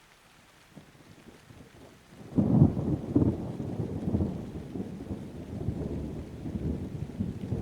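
Thunder over rain: a low rumble builds about a second in, then a loud clap about two seconds in rolls on as a long, pulsing rumble.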